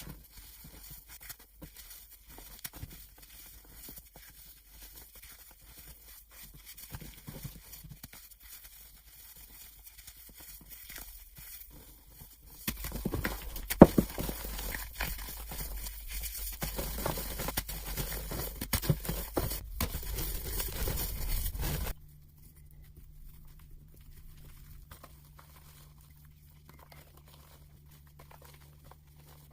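Gym chalk being crushed and crumbled, played at double speed: a run of dry crunches and crackles. About thirteen seconds in the crunching turns much louder and denser for some nine seconds, then drops back to faint crumbling over a low steady hum.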